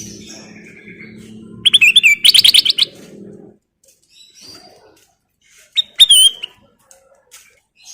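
Kutilang emas bulbul singing: a loud burst of quick, repeated high notes about two seconds in, then a shorter phrase about six seconds in. A low hum underneath stops about three and a half seconds in.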